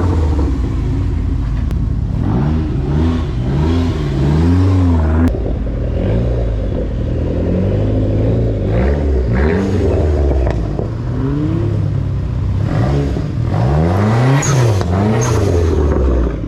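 Dodge SRT-4 turbocharged four-cylinder engines revving hard, the pitch climbing and dropping again and again in quick arcs. A couple of short sharp high sounds come near the end.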